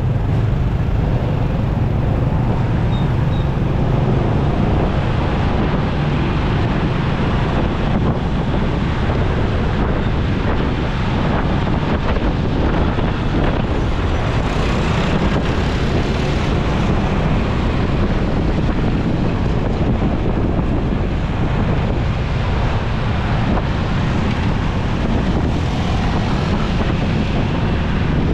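Steady rush of wind on the microphone of a moving motorcycle, mixed with the motorcycle's engine and road traffic noise.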